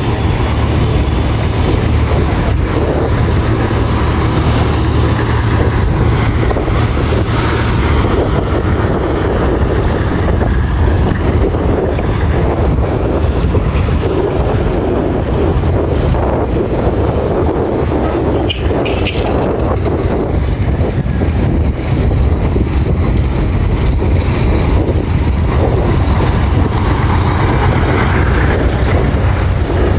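Steady engine rumble and road noise of a passenger vehicle, heard from a passenger's seat on board while it drives.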